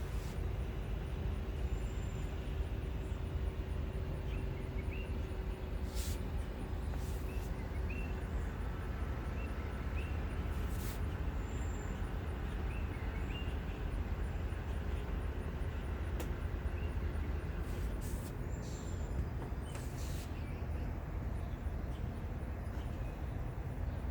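Outdoor ambience: a steady low rumble with small birds chirping short, hooked notes now and then, a few thin high whistles, and occasional clicks.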